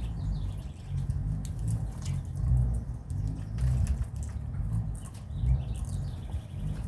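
Small birds chirping faintly a few times over a louder, uneven low rumble, with scattered light clicks.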